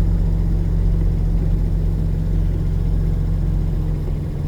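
Steady low engine hum with even low tones and a rumble beneath, running unchanged throughout.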